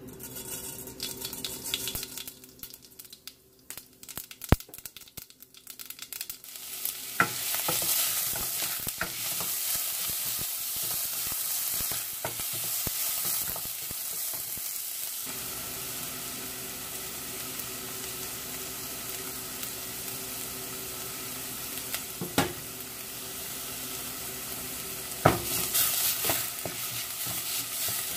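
Mustard seeds crackling in hot oil in a stainless steel pot, sharp scattered pops in the first few seconds. From about seven seconds in, chopped onions sizzle steadily as they fry, stirred with a wooden spoon that knocks against the pot twice near the end.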